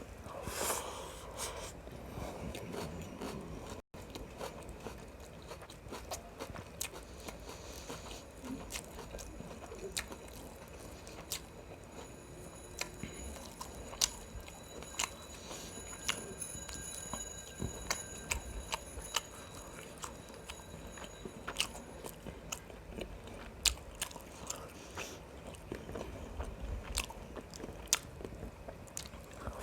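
Close-up eating sounds of a person chewing and biting mouthfuls of biryani with mutton gravy, with many scattered sharp mouth clicks and smacks.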